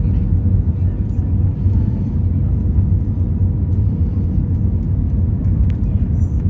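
Steady low rumble of an Airbus A320 airliner's engines and airflow, even throughout, with a faint steady hum above it.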